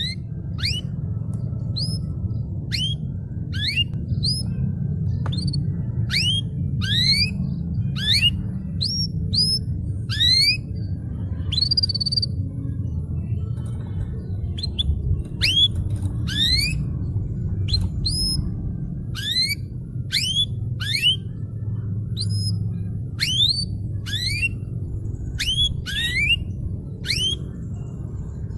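Domestic canary singing: a long run of separate rising whistled notes, about one or two a second, over a steady low rumble.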